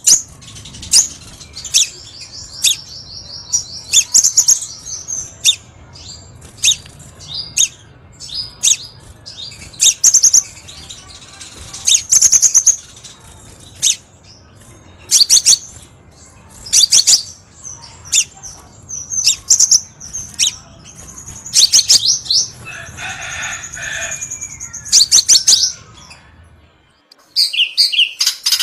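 Crimson sunbird song: loud bursts of high, sharp chirps and rapid trills, repeated every second or two. A faint low hum runs underneath. Near the end the hum drops out, and after a brief gap a new run of fast trills begins.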